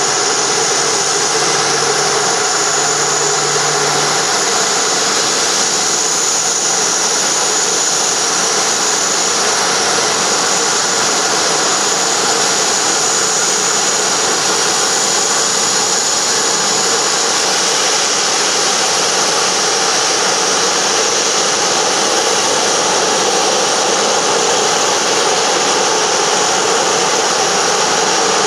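Steady turbine whine and rush from a parked jet aircraft running on the tarmac, a high whine over a broad even roar that holds without change.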